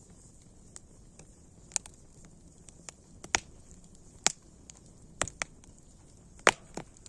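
Campfire crackling: irregular sharp pops and snaps over a faint steady hiss, the loudest a little past six seconds in.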